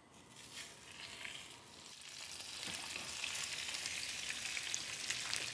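Flour-and-egg-coated skewers of meat and vegetables sizzling as they are laid into hot oil in a frying pan for shallow-frying. The sizzle swells about two seconds in and settles into a steady hiss with scattered crackles.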